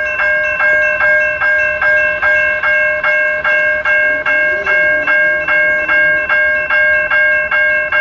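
Railroad grade-crossing bell ringing steadily at about two strikes a second, each strike a sharp clang that dies away, with no train heard yet.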